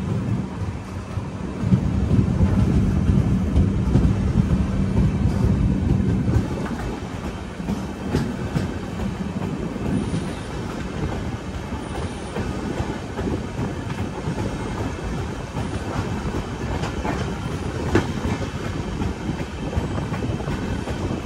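Train running on the track: a steady rumble with the clickety-clack of wheels over rail joints. There is a steady hum for the first six seconds or so, then it eases off.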